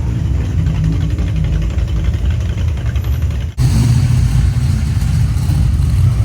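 Car engines and exhausts rumbling low and steady, with an abrupt change in the sound about halfway through where one clip cuts to another.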